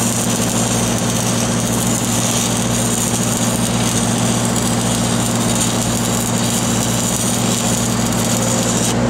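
Engine-driven welding machine running steadily, with the hiss and crackle of a stick-welding arc on the pipe over it. The arc hiss stops suddenly near the end as the arc is broken.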